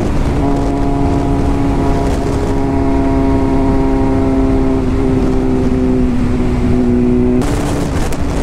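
BMW S1000RR inline-four sportbike with an Arrow full exhaust system, cruising at steady revs; the exhaust note is very loud. A louder rush of noise comes in near the end.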